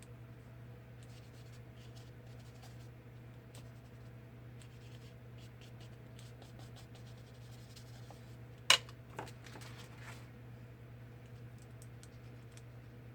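Faint, irregular scratching and light ticks of a needle and thread being stitched by hand through paper. A sharp click sounds about nine seconds in, with a smaller one just after. A steady low hum runs underneath.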